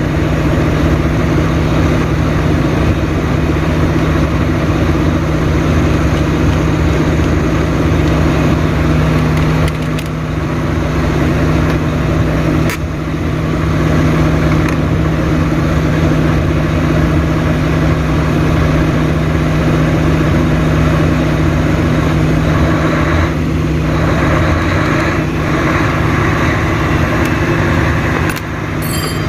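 A large engine running at a steady idle, an even hum that does not change pitch. A single faint click comes about halfway through.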